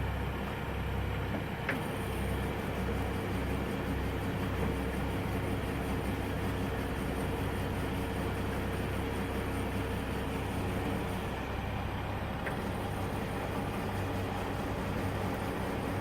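Heavy vehicle engine running steadily at an unchanging pitch, with two faint clicks about ten seconds apart.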